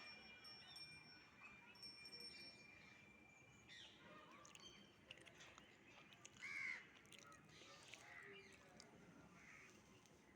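Faint bird calls and chirps, the clearest a short call about six and a half seconds in, over a faint steady high tone during the first few seconds.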